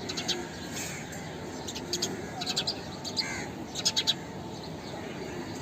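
House sparrows chirping: short sharp chirps in quick clusters of two to four, the loudest group a little past the middle, over a steady background noise.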